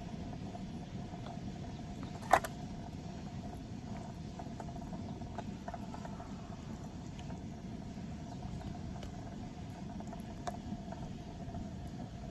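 Steady low rushing noise with a faint steady hum, broken by one sharp click a little over two seconds in and a few light ticks.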